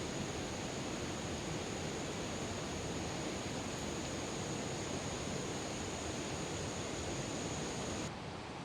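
Steady hiss of heavy rain in the forest at night, with a thin continuous high-pitched tone above it that cuts off abruptly about eight seconds in, where the rain also drops slightly in level.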